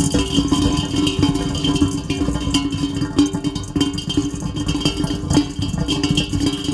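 Heavy rain pattering densely, with a steady low hum running underneath.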